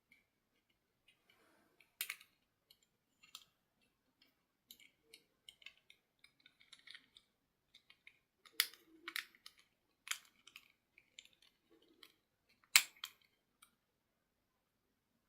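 Scattered small clicks and taps of objects being handled, irregular and quiet, with sharper clicks about 2 s in, around 9 s and about 13 s in.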